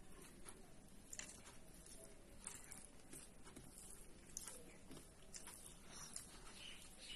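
Faint eating noises: a person chewing, with soft wet mouth clicks and smacks coming irregularly, a few seconds apart.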